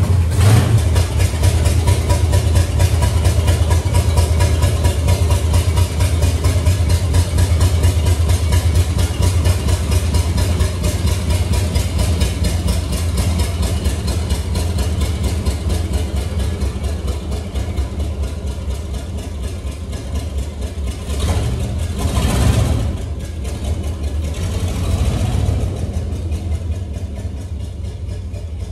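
Ford Ranchero's 351 Cleveland V8 running loud with a fast, steady pulse, swelling up briefly twice near the end. The engine has had no tune-up and is running really rich and rough.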